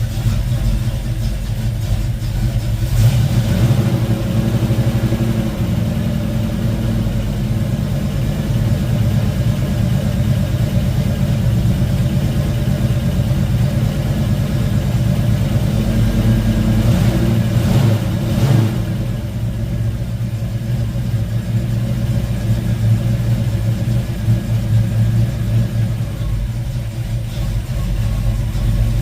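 1972 Ford Mustang Mach 1's V8, freshly fitted with a Crane hydraulic roller cam, running and warming up through a single 3-inch exhaust with a Black Widow Race Venom muffler. The engine note picks up briefly twice, about three seconds in and again around seventeen seconds in.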